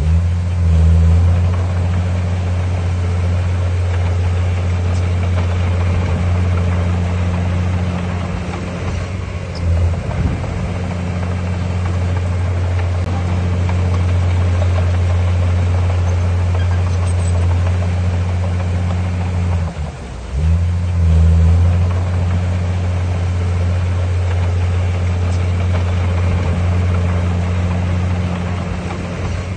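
Heavy diesel engine of earthmoving machinery running steadily at working revs, with brief dips and surges about ten and twenty seconds in.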